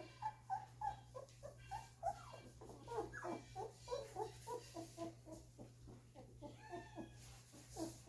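Two-week-old golden retriever puppies whimpering and squeaking: many short, high cries a second, overlapping.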